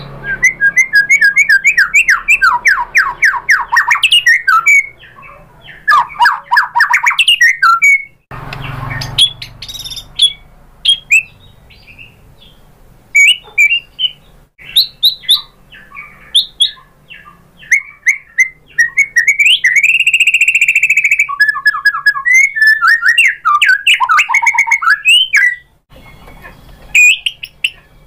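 White-rumped shama singing a loud, fast, varied song of rapid trills, repeated chattering notes and whistled phrases, broken by short pauses.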